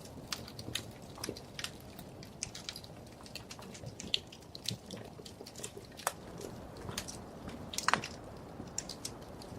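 Wood fire crackling in a fireplace: frequent irregular small snaps and pops over a soft low rumble, with a sharper pop about eight seconds in.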